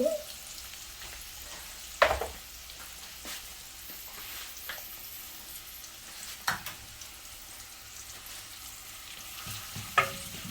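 Chopped onion and green chilli sizzling in hot oil with cumin and whole spices, a steady frying hiss. A utensil knocks against the pan three times, about two, six and a half and ten seconds in.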